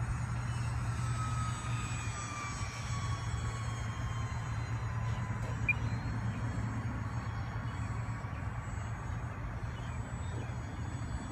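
Twin motors of a remote-control Aero Commander model plane flying, a steady whine that slides slowly down in pitch over the first few seconds as it passes. A brief click about six seconds in.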